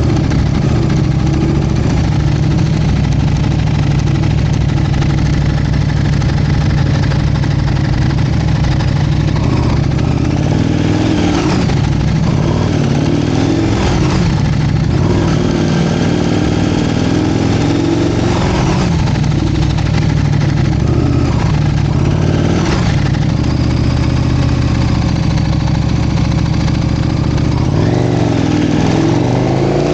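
Motorcycle engines idling steadily, revved briefly several times with the pitch rising and falling.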